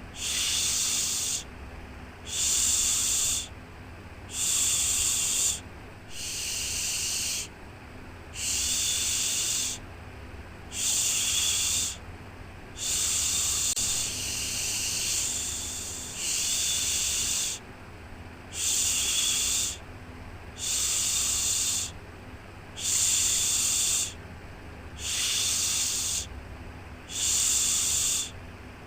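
Rhythmic shushing 'shhh' for soothing a baby: one hiss about every two seconds, each lasting about a second, with a low steady hum underneath.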